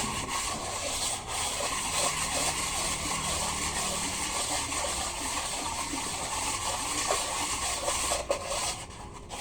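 Steady, grainy rubbing on the face of a truck engine's cylinder head as it is cleaned to show up cracks. The rubbing dips briefly near the end.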